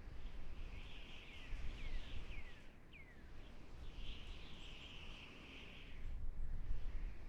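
Quiet forest birdsong ambience: a hazy high chirring chorus that swells and fades, with four quick falling whistle notes from a bird between about one and three seconds in, over a low rumble.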